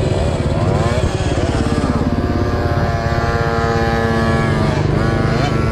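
Small motorcycle engine running hard, its revs rising and falling. About halfway through it holds a steady high pitch for a second or so, then dips and climbs again near the end.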